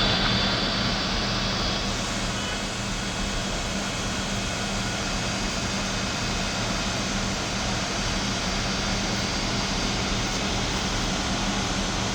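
A vehicle engine running steadily: a constant low hum under an even rush of noise.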